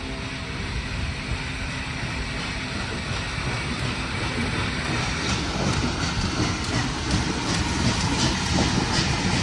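A train passing on the rails: a heavy, steady rumble that grows a little louder, with repeated clicks of wheels over the rail coming in about halfway.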